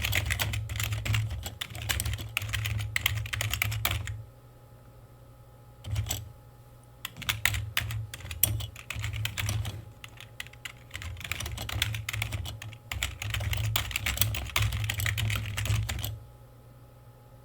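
Typing on a computer keyboard in runs of rapid keystrokes with short pauses: a burst of about four seconds, a pause of about three seconds with a single click, then a longer run of about nine seconds that stops shortly before the end.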